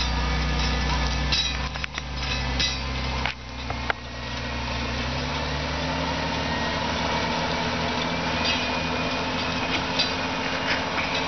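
John Deere 8345R tractor's six-cylinder diesel engine running steadily, dipping briefly about three seconds in, then rising in pitch and holding at a higher steady speed. Scattered short clicks and knocks sound over it.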